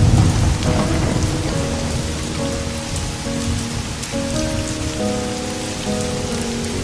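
Steady rain hiss with a low rumble of thunder at the start that eases off over the first second or two, under slow, soft piano notes.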